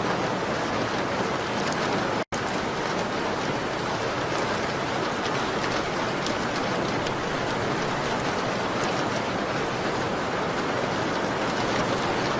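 Steady rain on a window: a dense, even hiss with faint scattered ticks. The sound drops out completely for an instant about two seconds in.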